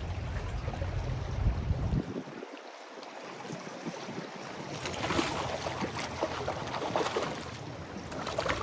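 Wind buffeting the microphone as a low rumble that drops away about two seconds in, over the hiss and splash of waves washing against the jetty.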